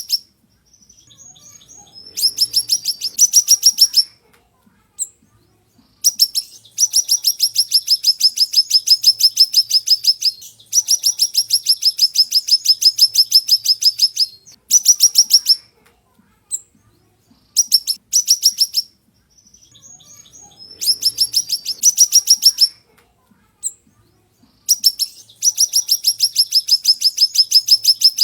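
Siri-siri songbird singing: fast, high trills of sharp repeated notes in bursts of one to four seconds, separated by short pauses.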